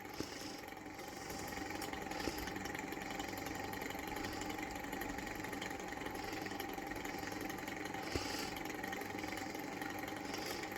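Small hot air engine running steadily with a constant hum. A faint hiss swells about every two seconds, and there are a few light ticks.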